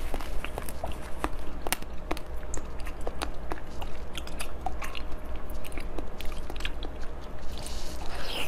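Close-miked chewing and crunching of a frozen sweet treat: irregular sharp crunches throughout, with a fresh bite into a new piece near the end.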